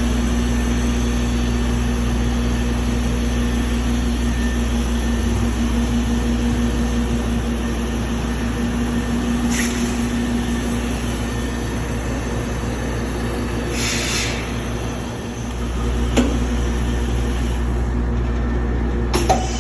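Fadal VMC-40 vertical machining center running under power, a steady machine hum with a held tone that drops out about halfway. Two short hisses come in the second half, followed by two sharp clunks near the end.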